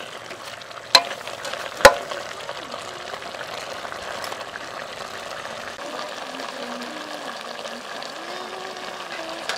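Metal ladle stirring fish head pieces and herb paste in an aluminium pot, clanking against the pot twice in the first two seconds, over a steady sizzle of the food frying.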